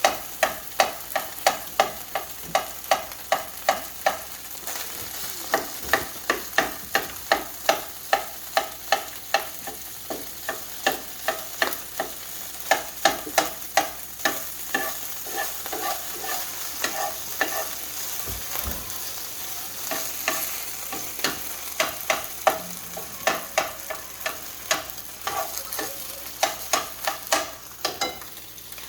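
Rice frying in hot oil in a pan, sizzling, while a utensil stirs it, scraping and knocking against the pan about twice a second, with fewer strokes for a while past the middle.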